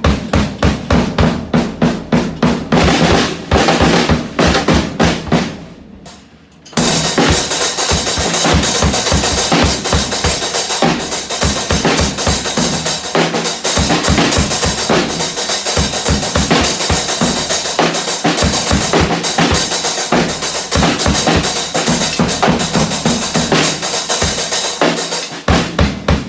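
Drum kit being played: a steady beat of hits for about five seconds fades out. About seven seconds in, a loud, fast, busy pattern with a continuous cymbal wash starts and runs until it stops just before the end.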